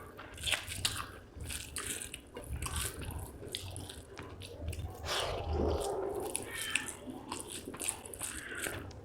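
Close-miked wet chewing and lip-smacking of a mouthful of rice and fish curry, with many short sticky clicks.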